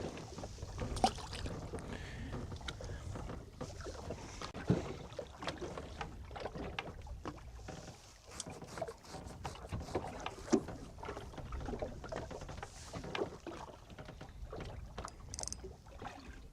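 Water lapping against the hull of a small fishing boat drifting at sea, with scattered light knocks and clicks from gear on board.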